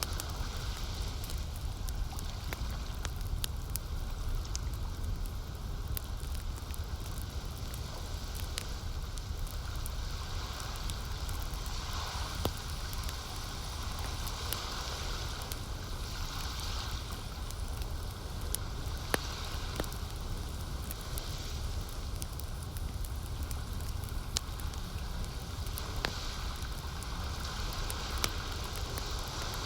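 Campfire crackling, with scattered sharp pops over a steady low rumble and soft swells of lake water lapping.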